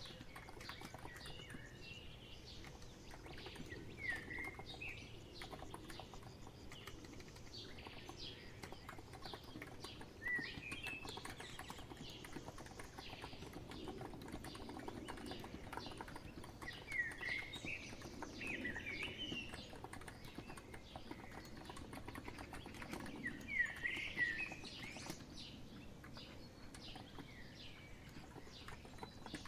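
Soft, steady typing on a COX Empress electro-capacitive keyboard, a dense run of light keystroke clicks, over a bed of birds chirping. The birdsong comes in short clusters of high chirps several times and is the loudest sound when it does.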